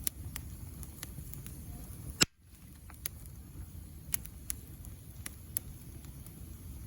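Wood fire crackling: irregular sharp pops and snaps over a steady low rumble of burning, with one much louder crack about two seconds in.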